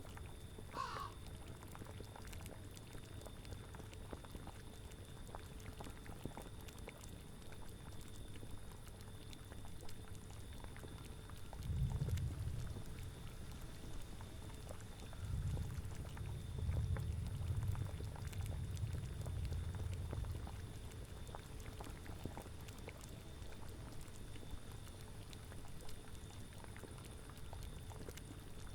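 Spooky ambience soundscape: a bubbling cauldron with scattered small pops over a low wind rumble that swells twice, about twelve seconds in and again for several seconds a little later. About a second in, a short animal call slides downward in pitch.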